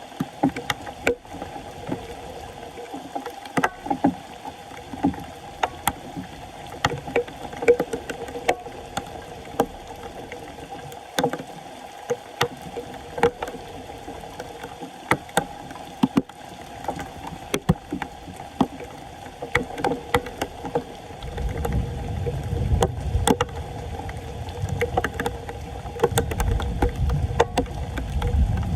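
Floodwater sloshing and splashing around a clogged street drain as it is being cleared, with frequent sharp knocks and clatters. About two-thirds of the way in, a low rumble joins and continues.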